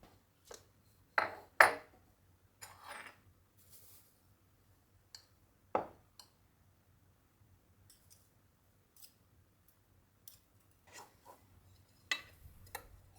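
Small objects being handled: scattered light clicks, taps and clinks, with a few louder knocks about a second in and again near the end.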